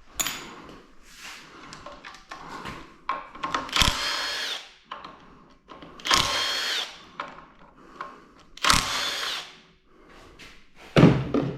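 Power tool run in three bursts of about a second each, with a faint motor whine, while taking bolts off an engine during a teardown; small clicks of tools and parts come between the bursts.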